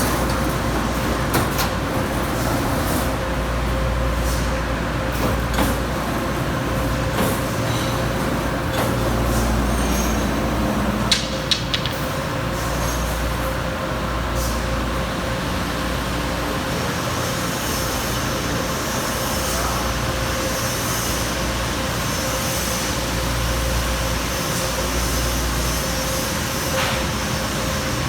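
Amada Pega 357 CNC turret punch running, a steady machine hum with a constant whine over a low rumble and no regular punching strokes. A few sharp clicks come about eleven to twelve seconds in.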